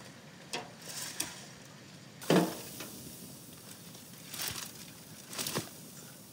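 Armful of dry brushwood branches rustling and snapping as it is dropped into a stone-lined pit oven onto embers, with a loud crash about two seconds in and further crackling snaps later.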